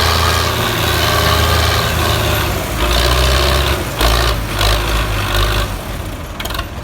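Belarus 510 four-cylinder diesel tractor engine running loudly, its note shifting a few times, with a sharp knock about four seconds in; the engine fades near the end.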